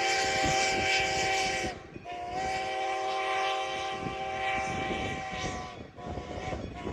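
Steam whistle of Strasburg Rail Road No. 90, a 2-10-0 Decapod steam locomotive, sounding a chord in long blasts with brief breaks: one blast ends under two seconds in, a longer one follows, and a third begins near the end. Under it the train rumbles along the rails.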